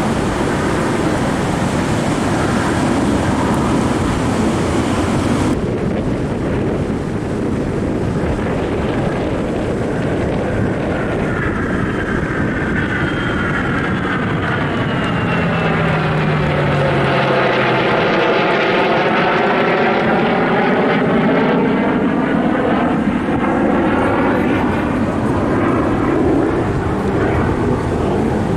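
A fixed-wing aircraft flying past with a loud, steady engine roar. As it passes, a phasing sweep in the roar slides down and then back up, most marked about two-thirds of the way through.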